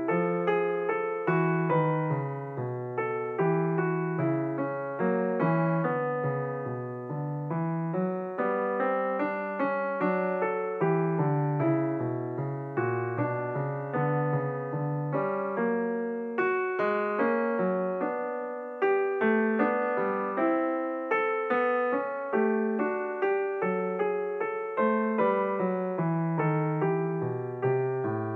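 Background piano music: a calm, continuous melody with a steady bass line, many notes struck and left to die away.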